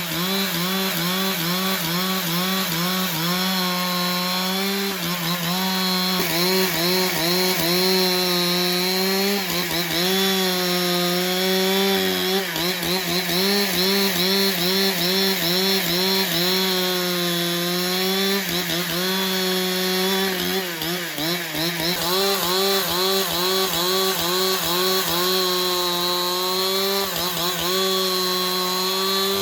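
Chainsaw running under load while cutting through wood, its engine pitch dipping and rising every few seconds as the chain bites and frees up.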